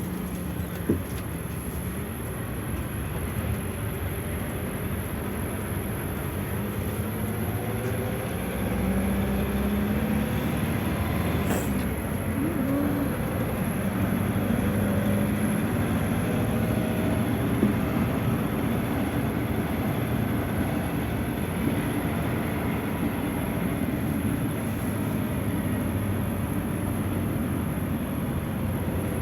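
Steady running noise of a moving vehicle, with a low drone that drifts in pitch and grows somewhat louder about nine seconds in.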